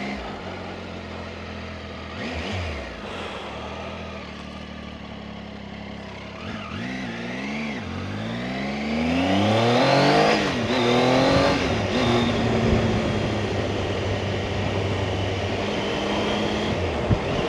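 Motorcycle engine running, then accelerating through the gears: its pitch rises and drops back several times from about six seconds in, settling to a steady cruise after about twelve seconds.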